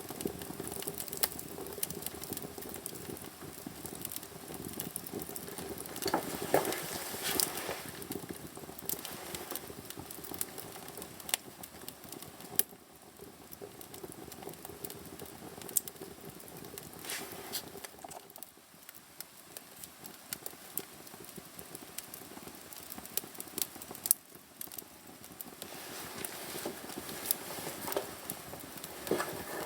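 Wood fire crackling in a fireplace, with irregular sharp pops over a steady hiss.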